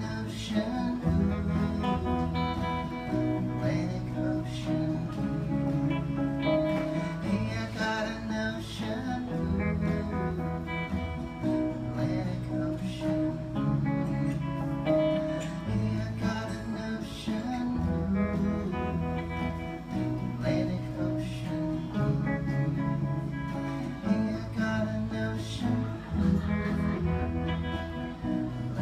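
Live song played on a strummed acoustic guitar, the chords changing every second or two.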